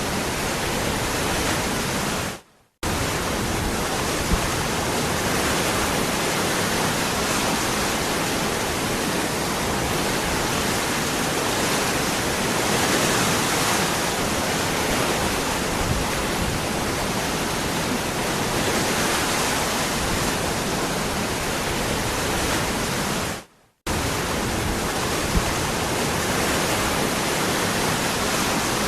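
Waterfall rushing in a steady, even hiss of falling water. It cuts out abruptly twice for a fraction of a second, about two and a half seconds in and again about twenty-three seconds in.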